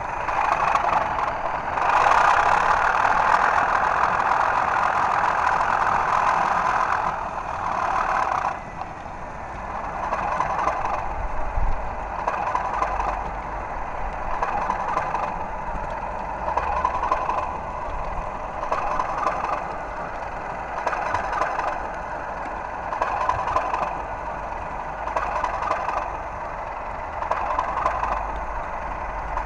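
Two sound-fitted garden-railway models of Class 37 diesel locomotives running together, playing their diesel engine sound. The sound is loud and steady for the first several seconds, then drops to a lower throb that swells and fades about every two seconds.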